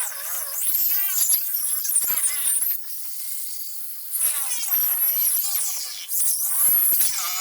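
A power tool cutting, its whine wavering up and down in pitch as it bites. It runs at a steady whine for a moment about three seconds in.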